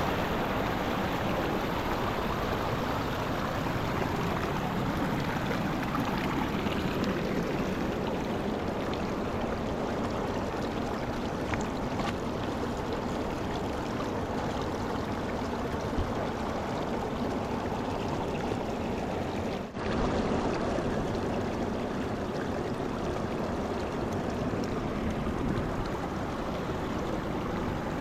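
Mountain river rushing, a steady wash of water noise, broken by a brief dip about two-thirds of the way through.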